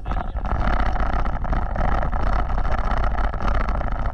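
A vehicle driving off-road: a loud, steady rumble from its engine and running gear.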